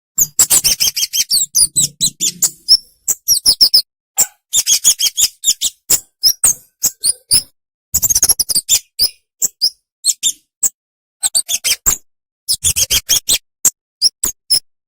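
Small songbird giving rapid runs of short, high, sharp chirps, in bursts broken by brief silences.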